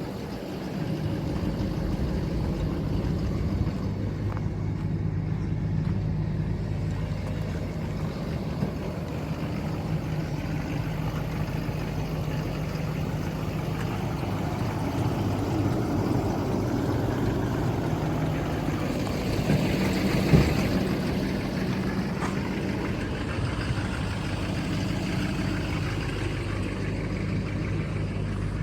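Heavy-duty pickup truck engine idling steadily, with one brief sharp knock about two-thirds of the way through.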